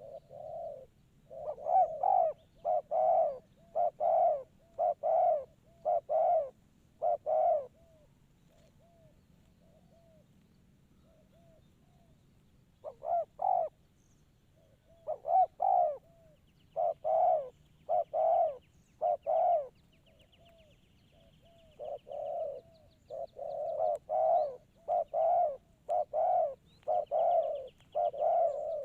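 Spotted dove cooing: runs of short repeated coos, about one a second, in three bouts with pauses between them. Faint high chirps of another small bird come in twice.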